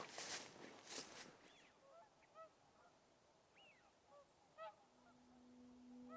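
Faint honking calls of wild waterfowl, short and repeated at irregular intervals, after a couple of footsteps at the start. A steady low hum comes in near the end.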